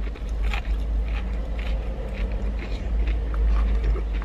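Close-up chewing of a crunchy breadcrumbed chicken wing: irregular crisp crunches and mouth noises, over a steady low rumble.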